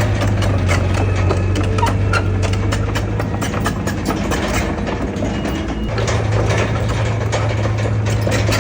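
Heavy diesel earthmoving machinery running with a steady low engine note, overlaid by frequent metallic clanks and rattles. The engine note weakens briefly about five seconds in, then comes back.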